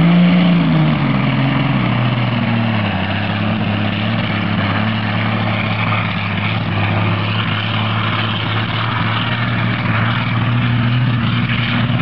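Modified pulling tractor's engine blipping up briefly, then dropping back over a couple of seconds and running steadily at low speed.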